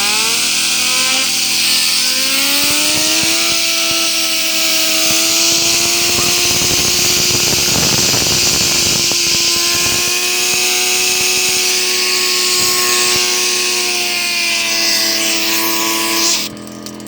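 Compressed air from an air compressor blow nozzle hissing onto a metal fidget spinner, which whines at very high speed. The whine rises in pitch at first and then holds steady, with a rough scraping stretch around the middle, and the air cuts off suddenly near the end.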